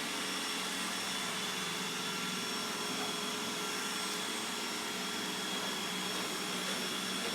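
iRobot Roomba 981 robot vacuum running on eco mode: a steady whir from its motor and fan, with a few faint fixed high whines over the hiss.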